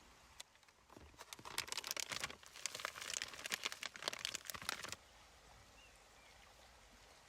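Crinkling and rustling of something being handled, a dense run of small crackles starting about a second in and stopping about five seconds in, followed by quiet.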